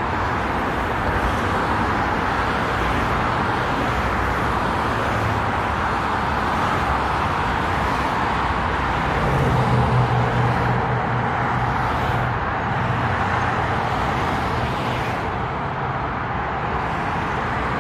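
CSX freight train rolling past: a steady rush of wheels on rail, with a low engine hum rising briefly about ten seconds in.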